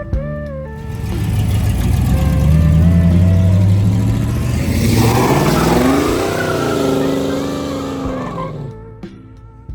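A car engine revving up and driving past close by; its pitch rises as it builds, then drops as it passes about six seconds in. Background music plays underneath.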